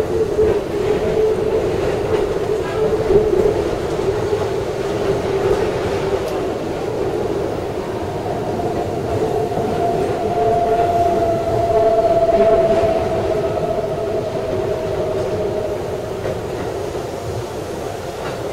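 Keikyu electric commuter train running, heard from the driver's cab: continuous rumble of wheels on rail with a steady whine, which moves to a higher pitch about eight seconds in and fades out a few seconds before the end.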